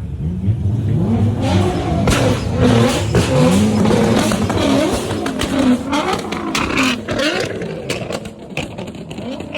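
Car engines revving hard, rising and falling in pitch over and over, with short sharp cracks through the middle.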